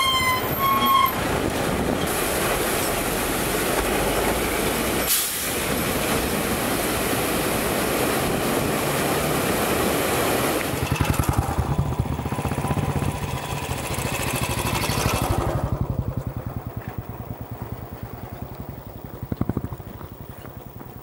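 A vehicle horn honks briefly at the very start, then a steady rush of engine and wind noise. About eleven seconds in, a pulsing motorcycle engine comes to the fore and fades away after about sixteen seconds.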